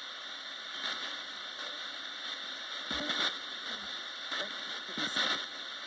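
Roberts radio giving a steady hiss of static, with brief snatches of sound breaking through about a second in, around three seconds and around five seconds.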